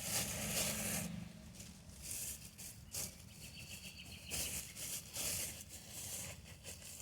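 Irregular rustling and scraping of hands handling a plastic container and potting mix during repotting.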